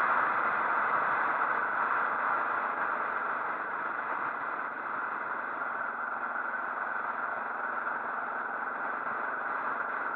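Motorcycle running, with a steady rush of engine and wind noise that eases a little over the first few seconds and then holds level.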